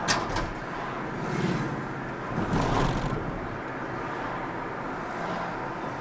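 Car driving along a road: steady road and tyre noise, with a sharp click at the very start and two brief swells in loudness, one about a second and a half in and a stronger one around three seconds in.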